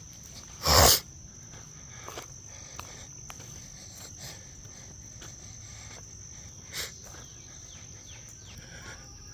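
Insects trilling steadily on one high note, over a low outdoor hum. A short, loud burst of noise breaks in about a second in, and a smaller one comes near seven seconds.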